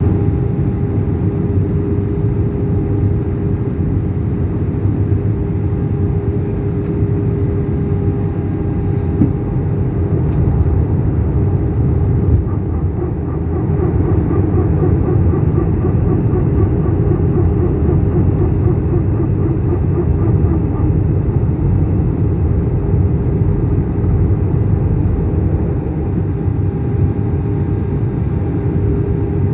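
Airbus A319 airliner's steady rumble of jet engines and airflow with a steady hum on top; a rapid pulsing tone joins for several seconds in the middle.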